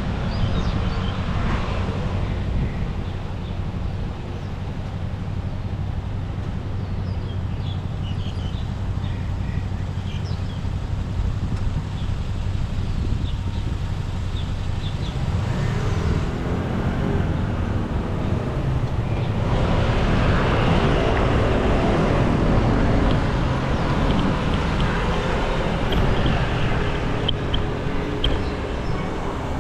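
Steady low rumble of wind on the microphone and rolling noise during a bicycle ride, turning into a louder, fuller rush a little past halfway.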